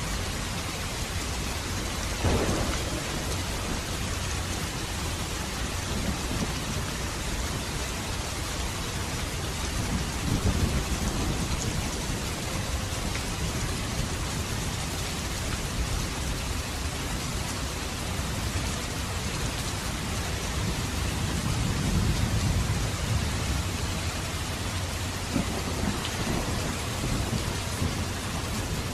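Steady rain falling, with low rumbles of thunder rolling in about two seconds in, around ten seconds in, and again about three-quarters of the way through.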